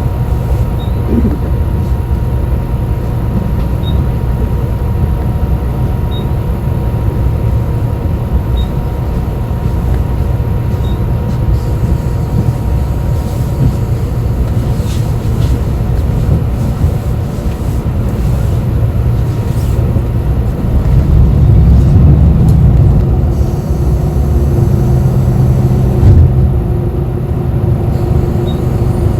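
Interior of a moving city bus: steady engine and road rumble, swelling louder for a couple of seconds about two-thirds through, with a single knock shortly after and a steady hum coming in near the end.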